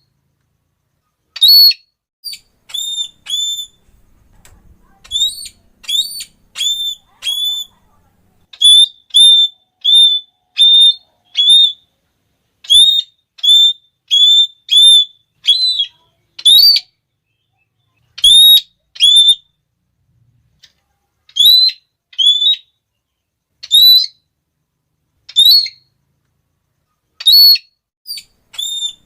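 Red-cheeked parrot (Geoffroyus geoffroyi) giving its high-pitched 'klee' call over and over: short, loud notes that each rise and then drop, in quick runs of two to five with short pauses between runs.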